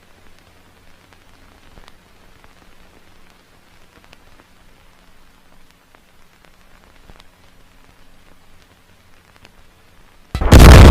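Faint crackling hiss over a low hum, then about ten seconds in a sudden, very loud boom that keeps going.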